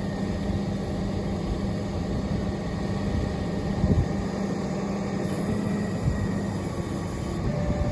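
Heavy truck's diesel engine running steadily, with a steady low hum and a single knock about four seconds in.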